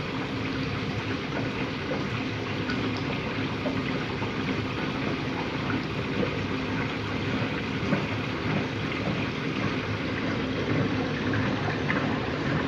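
Front-loading-style washing machine running empty on its rinse cycle: water flowing into and sloshing in the drum, a steady wash of noise with a faint constant hum underneath.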